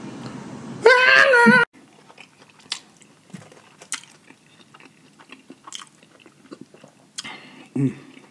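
A man's voice sings a short phrase, then cuts off abruptly. Quiet close-miked eating sounds follow: wet mouth clicks and small crunches of chewing fried chicken, with a brief low hum near the end.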